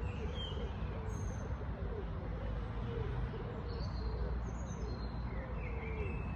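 Wild birds calling: scattered short, high chirps over a steady low rumble.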